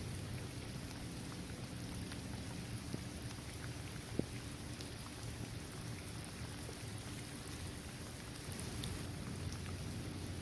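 Steady rain falling on a basketball court, trees and grass, an even patter with scattered single drops ticking and one sharper drop about four seconds in.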